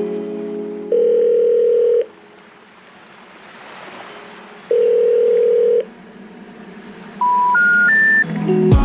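Telephone call-progress tones: two long ringback beeps a few seconds apart, then three short rising beeps of the special information tone that signals a number that cannot be reached. Music ends just after the start and comes back near the end.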